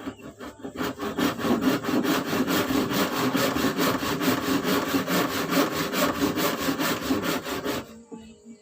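Hand saw cutting wood in quick, even back-and-forth strokes, about five or six a second, stopping about eight seconds in.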